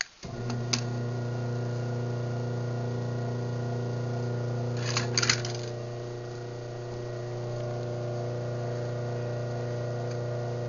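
Craftsman 139.53930DM garage door opener running a close cycle: a click as it starts, then its motor hums steadily, with a short rattle of clicks about five seconds in.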